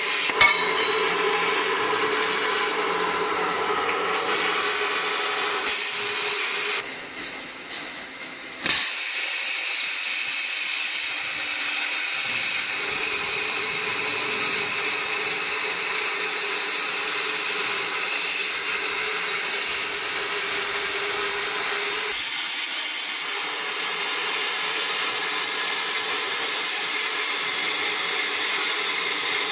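Plasma cutter running on a portable CNC cutting machine: a steady hiss with a low hum under it. The sound drops away and stutters for a moment about seven to nine seconds in.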